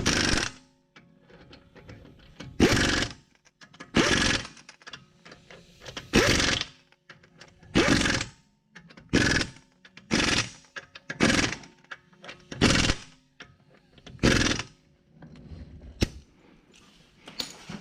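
Repeated short bursts of hissing, about a dozen, each about half a second long and coming roughly every one to two seconds at an uneven pace, with faint music underneath.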